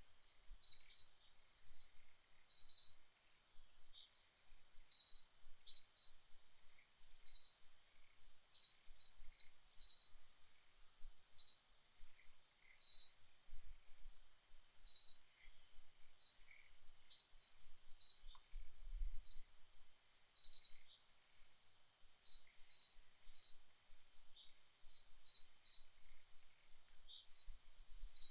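Birds chirping: short high chirps repeating irregularly, about one or two a second, over a faint steady high-pitched hum.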